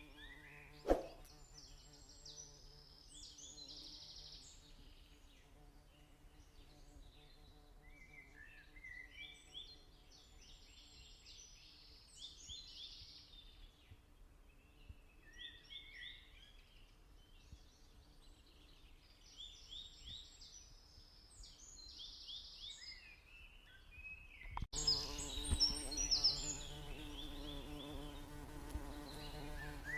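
Lovebird chattering in bursts of quick, short, high chirps, over a steady electrical hum. A sharp click comes about a second in, and near the end the sound steps up abruptly, with the hum and chirping louder.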